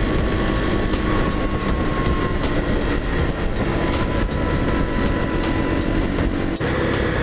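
Wind rushing and buffeting over a helmet-mounted camera on a Honda dual-sport motorcycle at road speed. The bike's single-cylinder engine runs steadily underneath, with a regular light ticking, and its note changes near the end.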